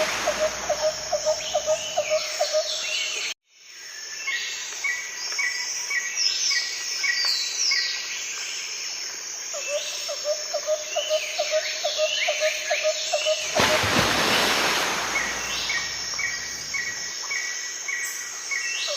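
Outdoor bush ambience: several birds calling with short notes that fall in pitch, over a rapid, evenly pulsed trill and a repeated chirp. The sound drops out for a moment about three and a half seconds in, and a loud rush of noise sweeps through about two-thirds of the way in.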